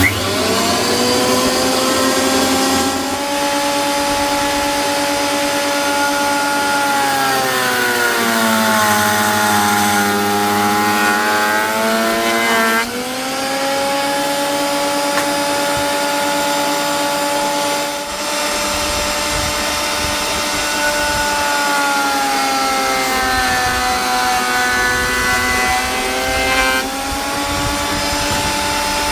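Electric thickness planer spinning up with a loud whine and running. Its pitch sags for several seconds at a time and the cutting noise thickens as boards feed through under the cutter head, then climbs back as each board clears.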